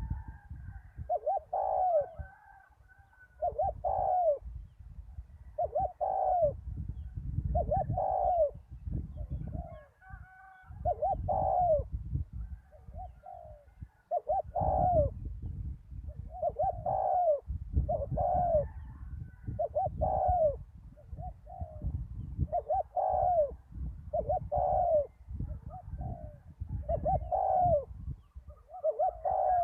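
Spotted dove cooing over and over in a steady repeating series of short low coos, with a low rumble underneath.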